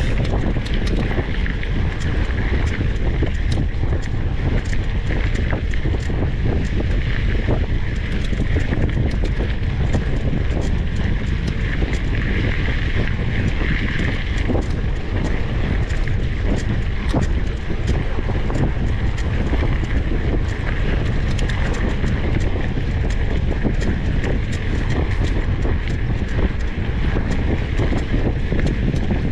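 Wind buffeting the microphone, a steady dense rumble with no break.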